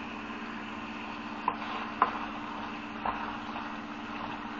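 Cubed chicken breast frying in grease in a pan, a faint sizzle under a steady mechanical hum, with a few light clicks about a second and a half, two and three seconds in.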